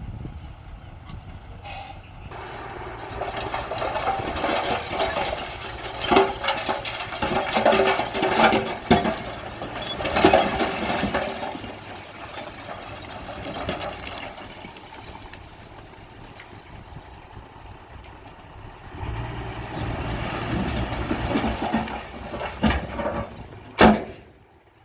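Heavy diesel earthmoving machinery working, with rock clattering and scraping in a busy stretch about a quarter of the way in and one sharp loud knock near the end.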